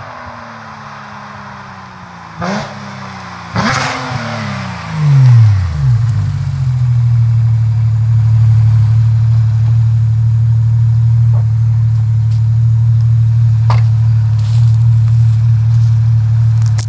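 Porsche 991.2 GT3's 4.0-litre flat-six, exhaust valves open through long-tube headers and a loud center muffler, coming off the throttle as the car slows, its revs falling with two short blips about two and a half and three and a half seconds in, loudest as it pulls up close. From about six seconds in it settles into a steady idle.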